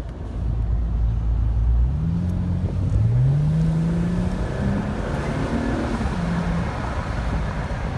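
2014 Mercedes-Benz E350 convertible's V6 engine accelerating from inside the open-top cabin: its pitch rises twice, about two and three seconds in, then settles into a steady cruise. Wind and road noise run underneath.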